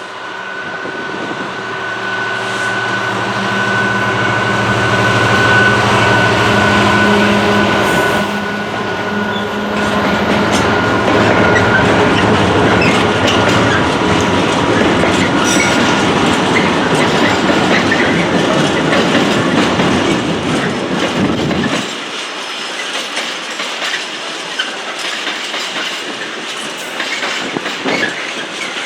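Diesel train passing close by: an engine hum builds over the first few seconds, then gives way to a dense rumble and clatter of wheels on the rails. The low rumble drops away suddenly about three quarters of the way through, leaving a lighter rattle and hiss.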